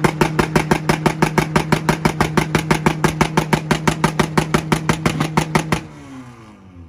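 Car engine held on a two-step launch limiter at steady revs, firing a rapid, even string of exhaust pops and bangs, about six a second. Near six seconds in the limiter is let go and the revs fall away.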